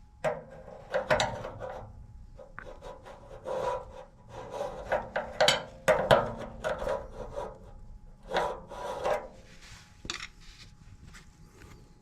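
Irregular scraping, rubbing and clunking of the old furnace blower motor and its housing being handled, in several clusters with pauses between them.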